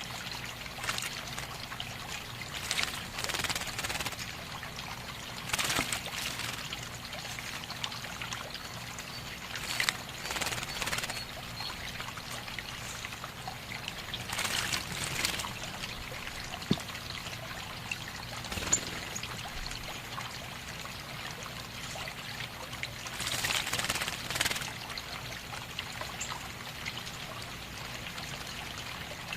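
Water trickling steadily, with louder splashing surges every few seconds.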